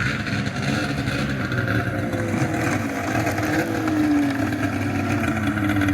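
Polaris XCR 800 snowmobile's three-cylinder two-stroke engine running just after a cold start, its speed rising slightly about three and a half seconds in and then settling.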